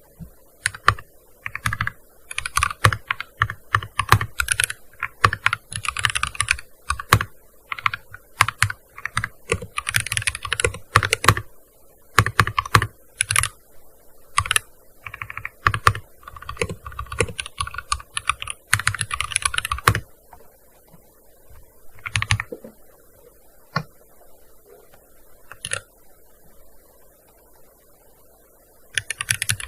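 Typing on a gaming keyboard: fast runs of keystrokes with short pauses for about the first twenty seconds, then only a few single key presses, and another quick run near the end.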